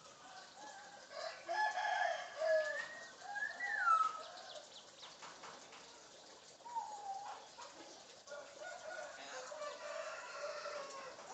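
African grey parrot calling in a string of whistled and squawking notes with sliding pitch, rather like clucking and crowing. The calls are busiest and loudest in the first four seconds, thin out in the middle and pick up again near the end.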